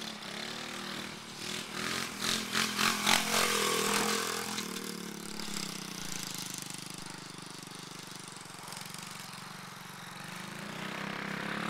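Pit bike engine running, with a few quick louder throttle blips about two to three seconds in, then a steady drone that slowly grows louder toward the end.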